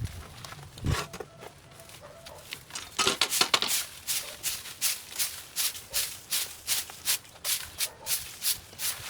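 Repeated short strokes of a hand tool, about three a second, beginning about three seconds in, with scattered rustling before them.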